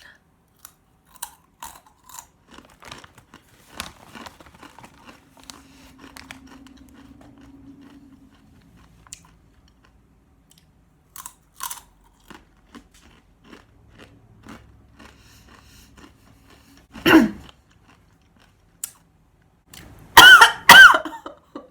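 Crunching and chewing of Takis rolled tortilla chips, eaten fast, with many small crunches. A loud cough about 17 seconds in and a couple more loud coughs near the end, from the heat of the chips.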